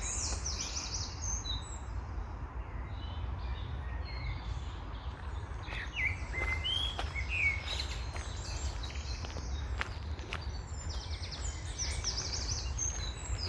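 Songbirds singing and chirping, with quick trilled phrases near the start and again near the end, over a steady low rumble.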